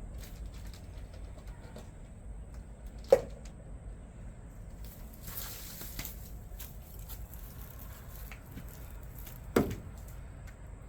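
Pieces of old roof shingle and wood being handled and set on a wooden birdhouse: two sharp knocks about six and a half seconds apart, with a brief scrape or rustle between them.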